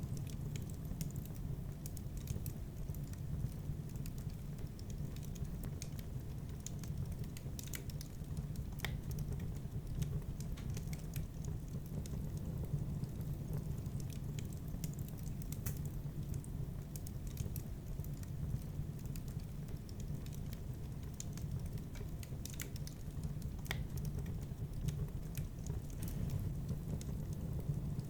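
Wood fire burning in a fireplace: a steady low rumble with scattered, irregular crackles and pops from the burning wood.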